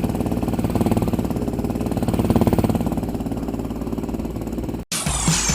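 Motorcycle engine running with a rapid, even pulse, swelling a little about two seconds in. It cuts off suddenly near the end and electronic music begins.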